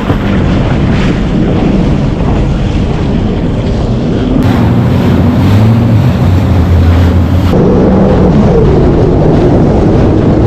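Jet ski engine running on the water, its pitch shifting up and down and growing louder about halfway through, with wind buffeting the microphone and water rushing.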